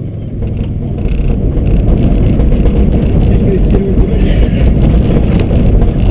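Subaru rally car driving hard, its engine and tyre and road noise making a dense, loud rumble that grows louder about a second in as the car gets going.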